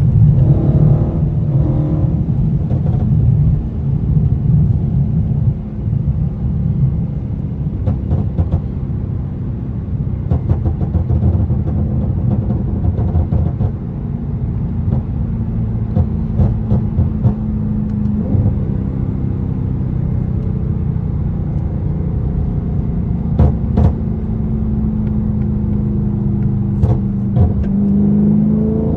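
Dodge Charger 392's 6.4-litre HEMI V8 running as the car drives, with sharp exhaust pops scattered through from its pop tune. The revs climb near the end.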